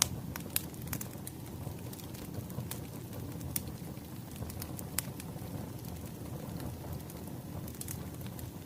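Wood fire crackling: scattered sharp pops and snaps of burning firewood over a steady low rumble of the flames, with the loudest pop right at the start.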